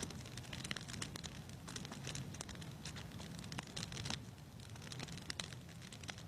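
Wood fire crackling in a fireplace: irregular pops and snaps over a steady low rumble of the flames.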